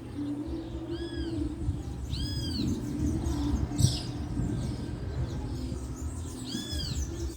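A songbird calling three times with short arched notes, one about a second in, one a little after two seconds and one near the end, over a low steady hum.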